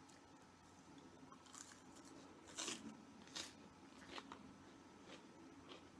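A person chewing food close to the microphone, faint: a few short crunching bites about a second apart, the loudest near the middle.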